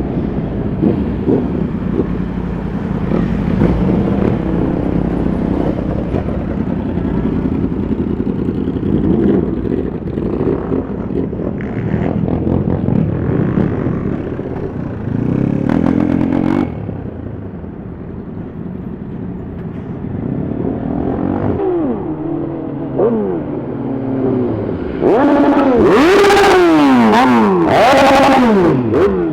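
Superbike engines running and being revved, several pitch sweeps as the revs rise and drop. The loudest, sharpest revving comes near the end.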